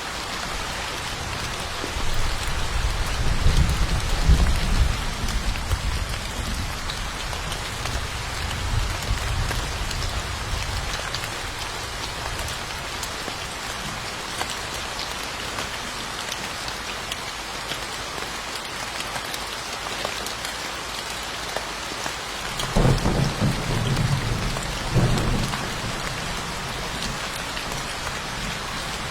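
Steady rain hissing throughout. Two rolls of thunder rumble under it: a long one starting about two seconds in and fading away by about eleven seconds, and a shorter one about three-quarters of the way through.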